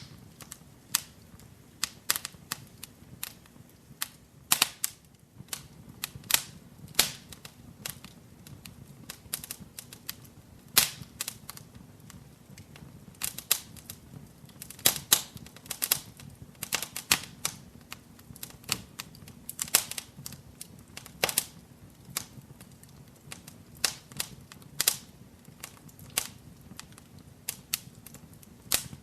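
Wood fire crackling in a fireplace: irregular sharp pops and snaps, several a second, some louder than others, over a faint low hum.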